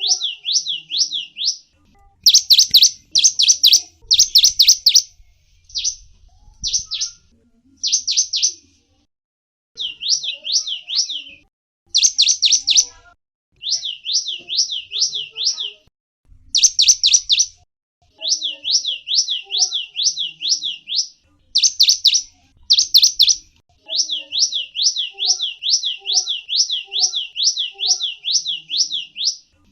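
A small songbird calling in rapid series of high, down-slurred chirps, about six a second, in bursts of one to two seconds with short pauses between them.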